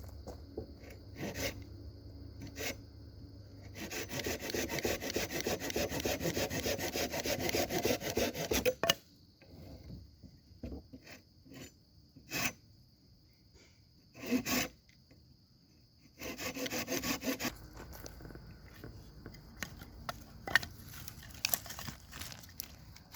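Wood being sawn by hand, in rapid scraping strokes: one long spell of about five seconds, then a short spell later, with a few knocks in between.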